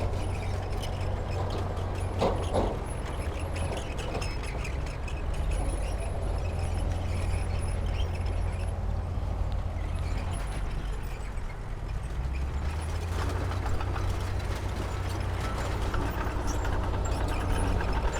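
Diesel engine of heavy earthmoving machinery running steadily, with metal clanking and rattling and a few sharp knocks about two seconds in.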